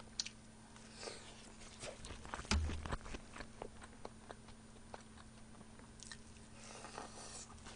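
Close-miked mouth sounds of a person chewing braised chicken and vegetables (jjimdak): small wet clicks and smacks, with one louder soft knock about two and a half seconds in, over a faint steady hum.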